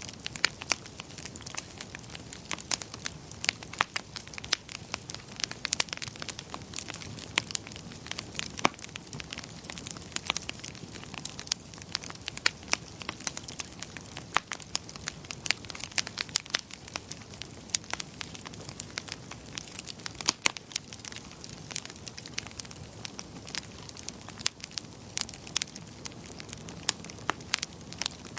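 Wood fire crackling in a fireplace: irregular sharp pops and snaps, several a second, over a soft steady rush of the burning.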